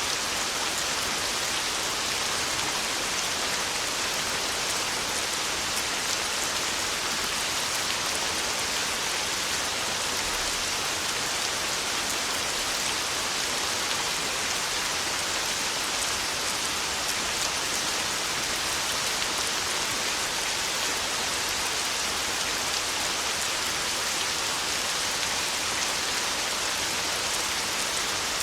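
Heavy rain on a tin roof: a steady, even hiss with fine drop patter.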